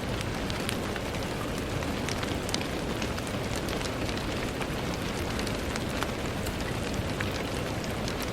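Steady rain with many small drop ticks scattered through it, the patter of raindrops hitting a surface over an even hiss.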